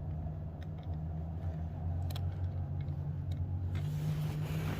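A steady low hum with a few light clicks of metal parts being handled, and a rush of noise near the end.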